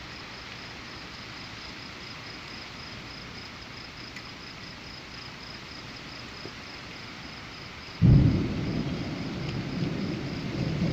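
Steady hiss of rain with crickets chirping in an even pulse, then about eight seconds in a loud clap of thunder breaks suddenly and rumbles on.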